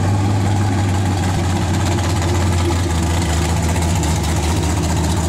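Car engine idling steadily, a loud even low note that steps slightly lower about three seconds in.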